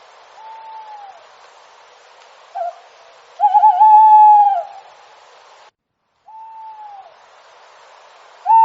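Owl calls: drawn-out, slightly falling hoots. One loud call with a wavering start comes a few seconds in, and fainter calls come before and after it, over a steady hiss. The sound cuts out briefly around the middle.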